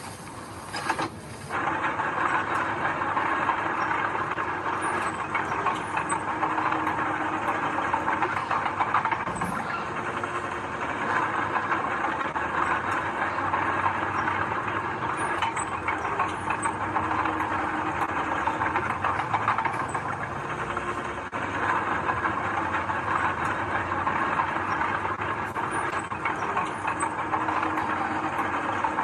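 Heavy earthmoving machinery at work: a diesel engine running steadily under a continuous metallic clatter, typical of a bulldozer's engine and clanking steel tracks. The sound changes abruptly about a second and a half in, then holds at an even level.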